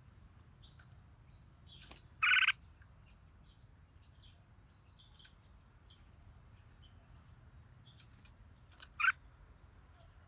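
Red-whiskered bulbul giving two short, loud calls, about two seconds in and again near the end, with faint high chirps in between.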